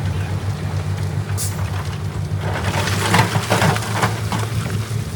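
Heavy earthmoving machine's diesel engine running with a steady low hum, and from about halfway a burst of clattering, crunching impacts like rock tumbling.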